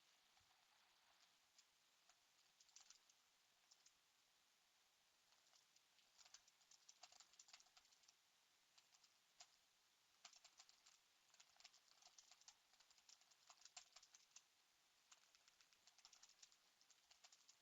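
Faint typing on a computer keyboard: bursts of rapid key clicks broken by short pauses.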